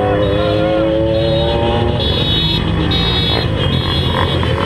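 Motorcycle engine pulling under acceleration, its pitch climbing slowly for about two seconds, then running on as a rougher, steady engine noise.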